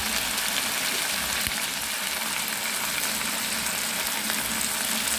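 Chicken pieces with onions and capsicum sizzling steadily as they fry in a metal pan.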